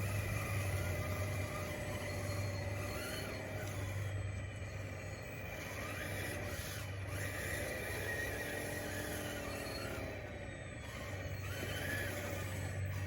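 DXR2 radio-controlled bulldozer working, its motor whine rising and falling in pitch as it speeds up and slows, with some squealing over a steady low hum.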